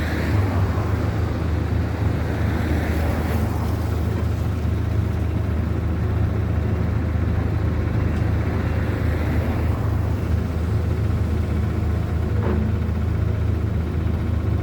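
A large engine running steadily with a deep, even drone and no revving, typical of heavy demolition machinery at work.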